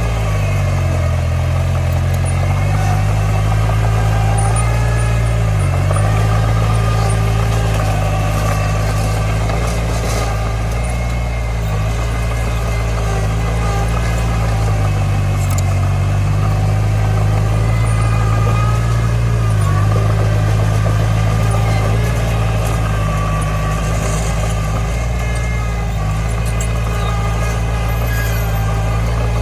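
Komatsu D20 bulldozer's diesel engine running steadily while pushing dirt. Its pitch dips briefly now and then, about a second in, near six seconds, near twelve seconds and near twenty seconds, as the load comes on.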